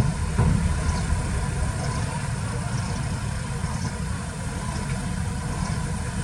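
Diesel engine of heavy earthmoving machinery running steadily, with a sharp knock at the very start and a smaller one about half a second later.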